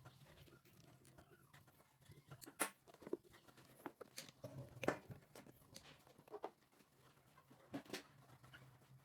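Faint, scattered clicks and taps of small parts being handled, heard one at a time, over a low steady hum.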